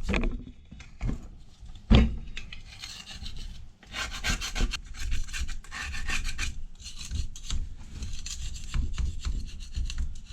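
Hand scraping and rubbing crud off the housing of an old Ford 5.0 starter motor, in quick repeated strokes. A couple of knocks come in the first two seconds, the loudest about two seconds in.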